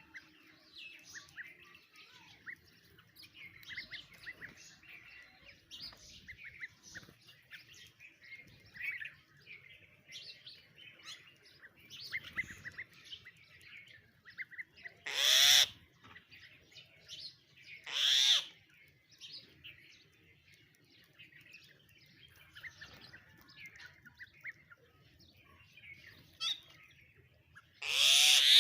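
Small birds chirping and twittering continuously, with three loud harsh calls from a larger bird: one about halfway, one a few seconds later, and one at the very end.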